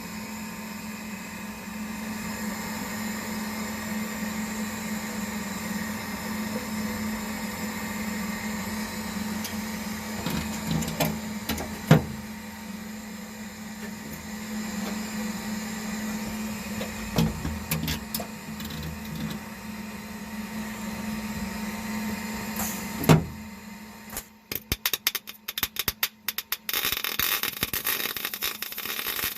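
A steady low machine hum with a few sharp knocks of metal work. About 24 seconds in it gives way to rapid, irregular stop-start scraping.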